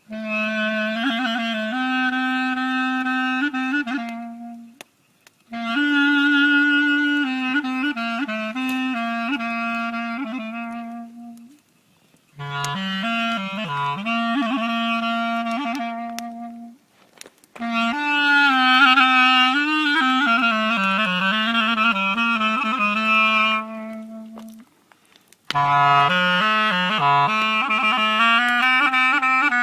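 Music: a reedy woodwind melody like a clarinet, played in phrases of a few seconds with short pauses between them over a low held note.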